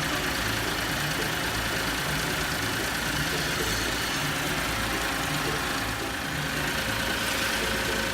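Small engine idling steadily, with an uneven low pulsing under it.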